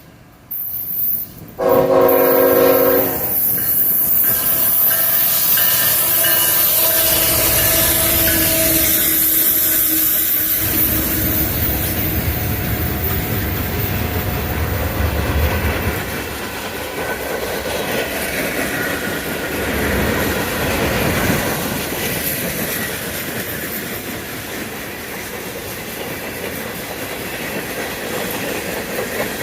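Diesel freight locomotive's horn sounding loudly about two seconds in and continuing for several more seconds as the locomotive passes, then the rumble and clickety-clack of freight cars rolling by on the rails.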